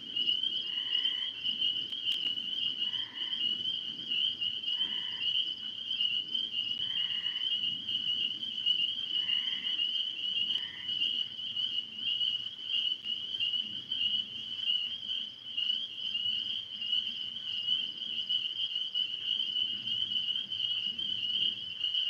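Night chorus of frogs and insects: a steady high-pitched trill, with a short repeated call every two seconds or so until about halfway through.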